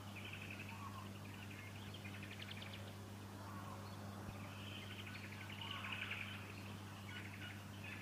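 Fuscous honeyeater nestlings begging in short, raspy, repeated bursts of high calls, thickest in the middle of the stretch.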